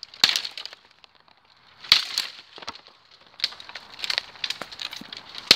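Dead wood cracking and snapping as a dead tree is broken down: a series of sharp breaks, the loudest near the end, with rustling of branches between them.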